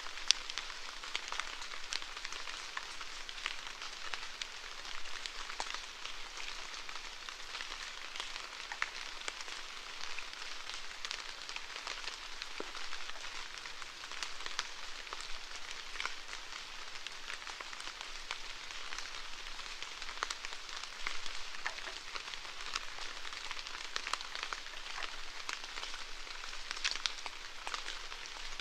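Steady rainfall: an even hiss with many small drops ticking on a surface.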